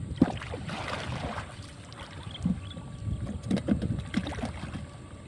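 Water sloshing and splashing around someone wading in shallow water, with a burst of splashing about a second in and another run of splashes a few seconds later.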